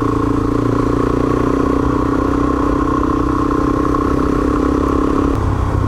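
Off-road motorcycle engine running steadily under way on a dirt track, with a low rumble beneath it; the engine note drops off about five and a half seconds in as the throttle eases.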